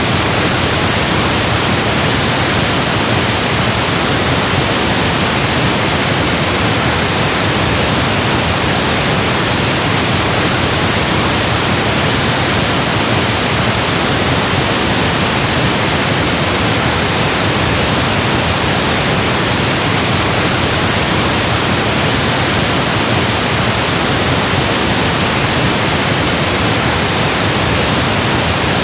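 Steady electronically generated pink noise: an even, unchanging hiss spread across the whole range, with no tones or events.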